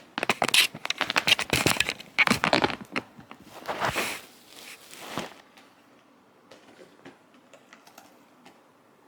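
Loud rustling and crinkling with many quick clicks for about five seconds, then only faint scattered ticks.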